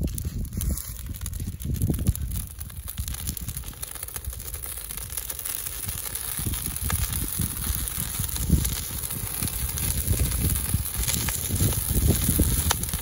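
Bonfire of dry grass and cut branches catching and crackling, with many sharp pops that come thicker in the second half, while wind buffets the microphone with an uneven low rumble.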